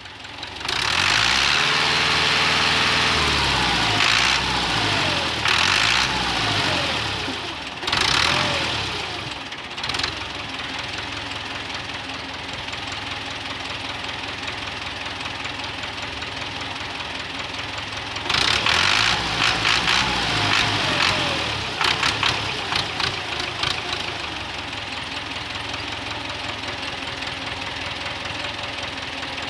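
Tractor engine running at idle with a steady diesel clatter. Its pitch sweeps up and down several times in the first ten seconds. A loud hiss rises over it for several seconds at the start and again about two-thirds of the way through.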